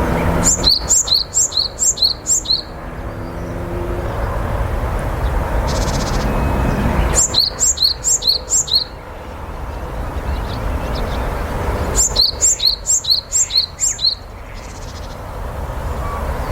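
Japanese tit singing three short bouts a few seconds apart. Each bout is a quick run of repeated two-note phrases, a high note dropping to a lower one.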